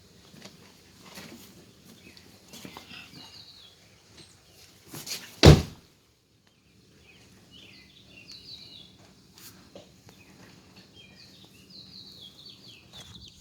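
Birds chirping outdoors, with one loud sharp thump about five and a half seconds in, after which the sound cuts out for about a second.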